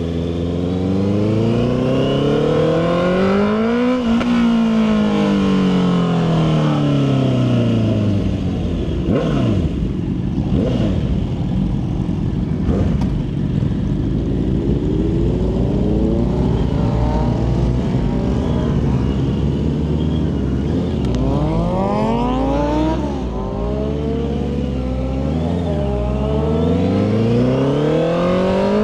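Motorcycle engine revving and accelerating: the engine note climbs for about four seconds, then falls away over the next few, and several quicker rises and drops come in the last third, like gear changes.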